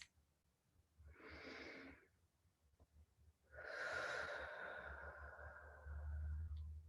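A person's slow, deep breathing close to the microphone: a short, soft breath in about a second in, then a longer breath out lasting about three seconds.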